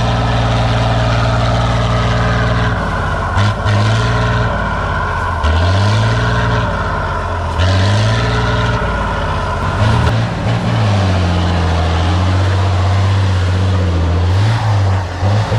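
Heavy off-road trial truck's diesel engine working hard, its revs dropping and climbing again several times as it is throttled and shifted.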